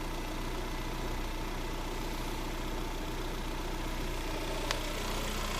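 Lada Granta's VAZ-21126 1.6-litre 16-valve engine idling steadily, with one brief click about three-quarters of the way through. There is no grinding: the tensioner roller that had been rubbing the crankshaft pulley has been set clear.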